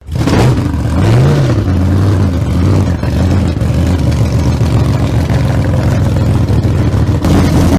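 An engine running loudly and steadily, revving up and back down once about a second in, then cutting off abruptly.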